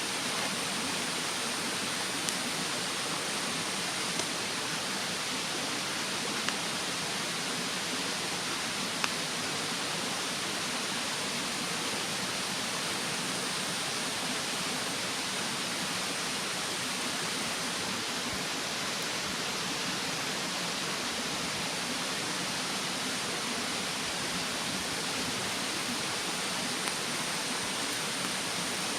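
Campfire in a fire stand crackling, with a few sharp pops, over the steady rush of a mountain stream.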